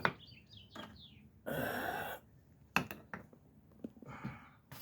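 Small birds chirping faintly early on, with a few light knocks and a short scraping rustle about a second and a half in, from the fork parts being handled.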